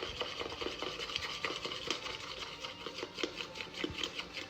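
A spoon stirring melted chocolate and cream into ganache in a bowl, a fast, irregular run of scraping and clicking strokes against the bowl.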